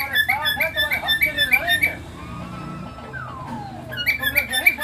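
Cockatiel singing: quick runs of short whistled notes, about five a second, breaking off about halfway for one long falling whistle before the quick notes start again.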